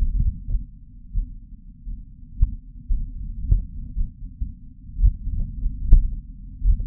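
Martian wind picked up by the Perseverance rover's microphone: irregular low gusts buffeting the mic several times a second, heard only as deep sound with nothing above the low range. A few faint ticks are mixed in.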